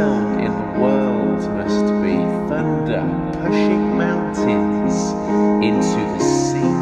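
Piano music, with held notes and chords changing every half second or so.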